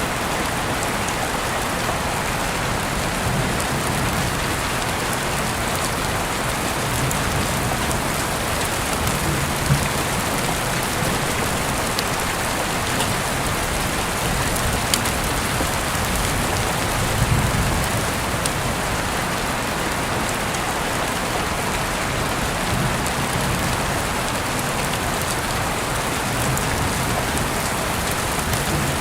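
Heavy rain falling steadily, heard through an open window, with a few brief drip ticks standing out.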